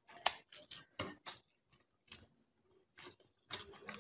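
Close-miked chewing of fish curry and rice: irregular wet mouth clicks and lip smacks, thick during the first second and a half, then only a few scattered ones.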